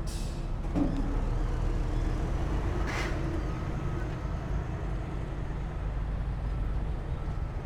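Heavy earthmoving machinery's diesel engine running with a steady low drone. There is a brief hiss at the start and a short hissing clatter about three seconds in.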